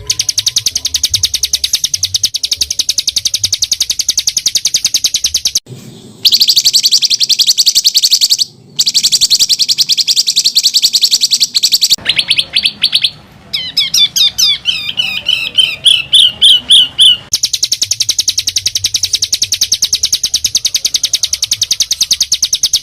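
Songbird's harsh, rapid rattling trill, a dense high roll of notes broken by short gaps about six and nine seconds in. Around the middle it switches to separate sliding whistled notes at about four a second, then goes back to the fast rattle.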